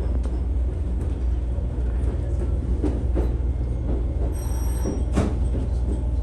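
Setsugekka diesel railcar running on the rails, heard from inside the cabin: a steady low rumble with scattered knocks, a brief high squeal about four and a half seconds in and a sharp clack just after.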